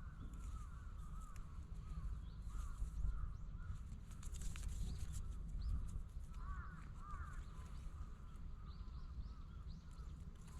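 Birds calling outdoors: many short, repeated calls, thickest about two-thirds of the way through, over a steady low rumble of wind on the microphone.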